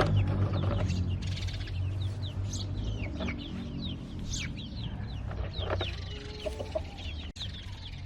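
Newly hatched chicks peeping: many short, high, falling peeps, with a hen clucking low among them. A low hum under the first few seconds fades away.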